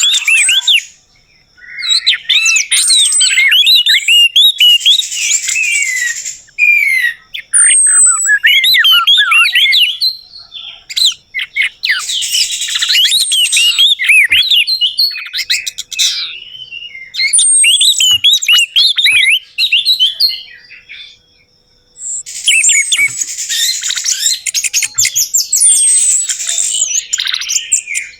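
Orange-headed thrush (anis merah) singing long, rapid phrases of varied, sliding high whistled notes, broken by short pauses of about a second.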